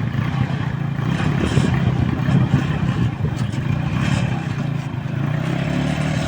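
Bajaj Boxer single-cylinder four-stroke motorcycle engine running steadily in a homemade mini jeep.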